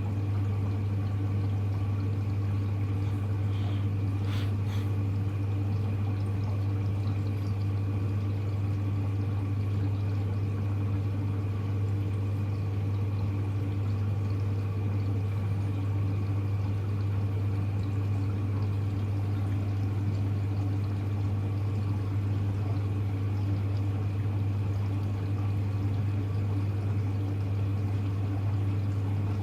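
Hoover Electra front-loading washing machine filling with cold water: a steady rush of water into the machine over a constant low hum, unchanging throughout.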